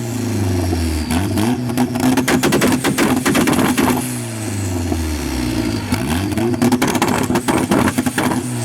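Tuned car engine revved hard twice, the revs falling away each time, with rapid popping and crackling from the exhaust as it spits flames.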